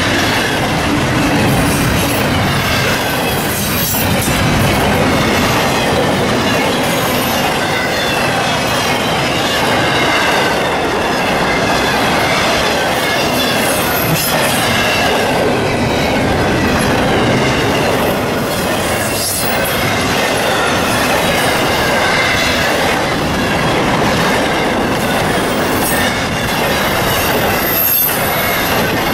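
Intermodal freight train cars, double-stack containers and then trailers on flatcars, rolling past close by: a loud, steady rumble of steel wheels on rail with a wavering high wheel squeal over it and a few sharp clacks.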